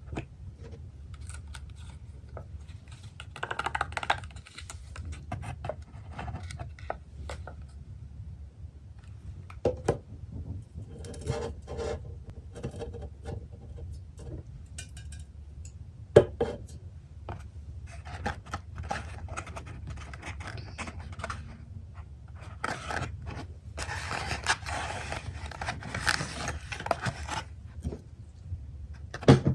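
Close-miked scraping, scratching and tearing from handling a personal-size pepperoni pizza and its cardboard box. There are a few sharp knocks about ten, sixteen and twenty-nine seconds in, and the scraping grows denser near the end.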